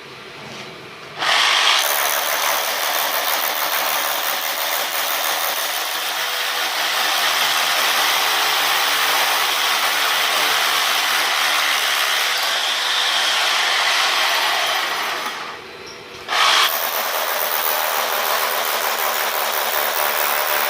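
Electric carpentry power tool running: it starts about a second in, runs steadily for about fourteen seconds, stops briefly, then starts again a second later.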